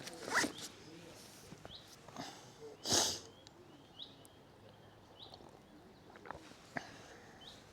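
A zip being pulled on a bag or jacket: two quick zipping strokes, the louder one about three seconds in, with a few faint small clicks and short high chirps between.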